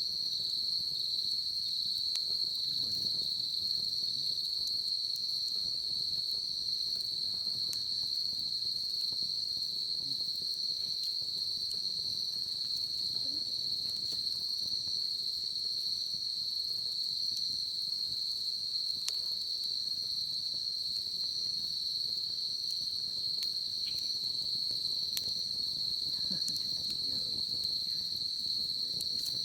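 Steady, unbroken high-pitched trilling of a chorus of insects, with faint scattered pops and crackles from a wood bonfire.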